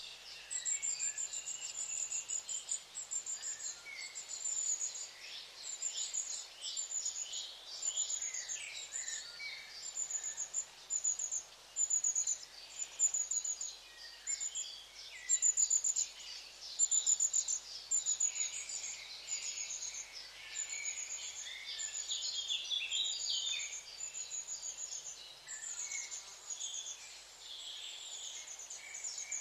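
Several small birds chirping. One short, high note is repeated about once a second, and other birds add scattered chirps and short trills beneath it.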